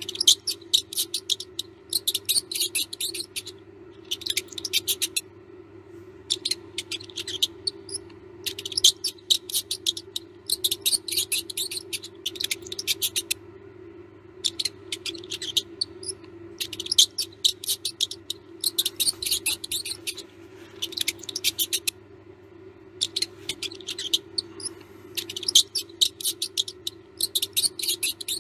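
Mouse squeaking and scratching in rapid bursts of high, chittering ticks, each burst about a second long with short gaps between, over a steady low hum.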